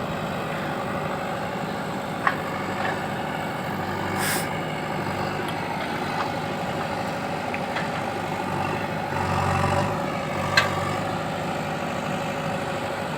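Heavy diesel engine running steadily, swelling for a moment about nine seconds in, with three sharp knocks spread through it.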